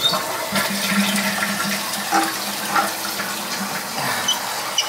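Toilet water running after a flush, with a steady rush of water and a few small clicks and knocks.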